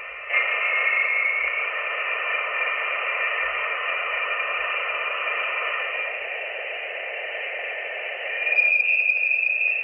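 Space plasma waves recorded by a spacecraft and turned into sound: a steady hiss with faint whistling tones in it. A brighter high tone comes in about eight and a half seconds in.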